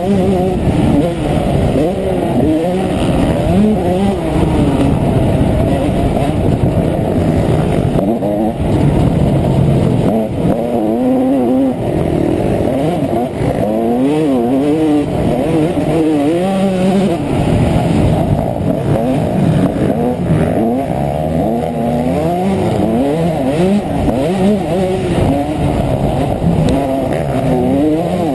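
Honda CR125 two-stroke single-cylinder motocross engine being ridden hard, revving up and falling back again and again as the rider works the throttle through the gears.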